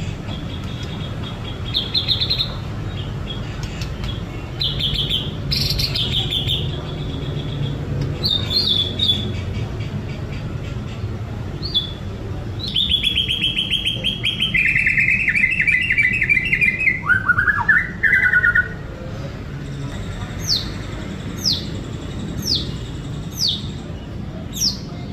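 White-rumped shama singing a varied song of whistled phrases and fast trills, with the loudest trilling in the middle. Near the end it gives a run of short downward-sliding notes, about one a second.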